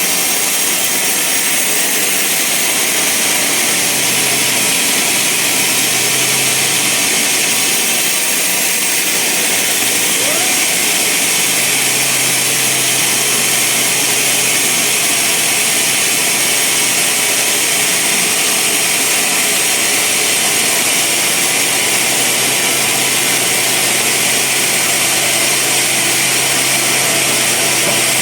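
Band sawmill running steadily, its blade sawing through a large log: a loud even whir with a low hum underneath.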